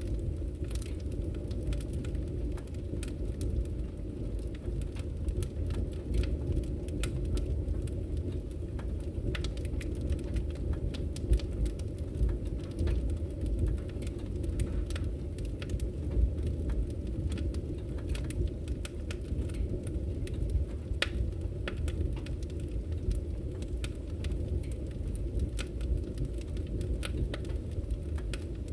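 Wood fire in a fireplace burning with a steady low roar and frequent, irregular sharp crackles and pops.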